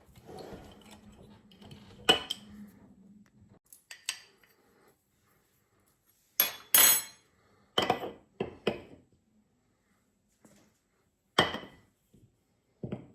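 Kitchen utensils clinking and knocking against a mixing bowl in a series of irregular sharp knocks while flour is added to a cheese-stick dough. A faint low hum runs under the first few seconds.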